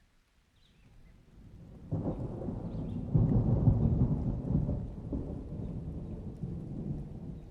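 A thunderclap that builds from a faint rumble, breaks sharply about two seconds in and is loudest a second or so later, then rolls on as a low, slowly fading rumble.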